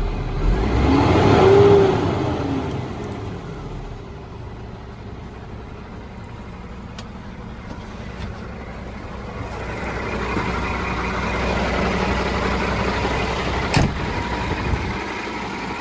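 Scania R 480 truck's diesel engine revved once, its pitch rising and falling in the first few seconds, then running steadily, its level climbing again later; a sharp click near the end.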